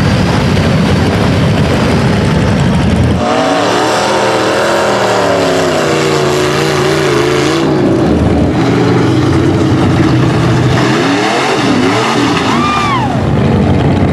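Off-road truck engine revving hard, its pitch swinging up and down in repeated surges, over loud, continuous engine noise.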